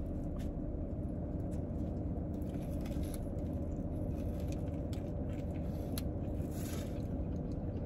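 A person biting into and chewing a soft roast beef sandwich, with faint scattered mouth clicks and a brief louder noise near the end, over a steady low hum.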